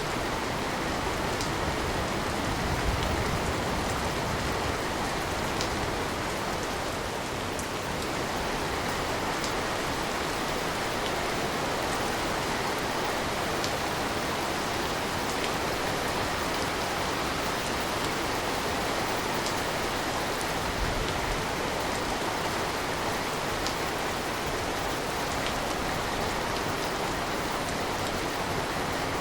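Steady rain falling, a constant even hiss with scattered individual drops ticking, as heard by a window.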